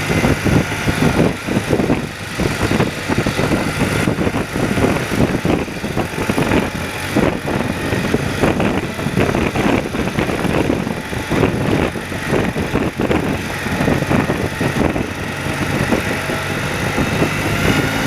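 A 30-year-old BMW motorcycle's engine running under way at road speed, heard from the rider's seat, mixed with a rough, fluctuating rush of wind noise.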